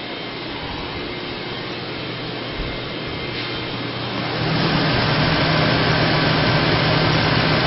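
A 2007 Ford F-250 Super Duty's 5.4 liter V8 running steadily. It grows clearly louder about four and a half seconds in and stays at that level.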